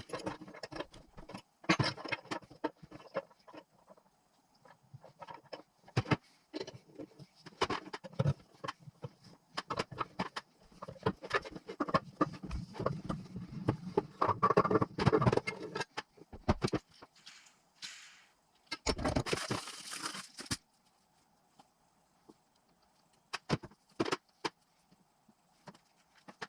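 Irregular clinks and knocks of tools and metal motorcycle engine parts being handled on a workbench during assembly, with a short burst of hiss about nineteen seconds in.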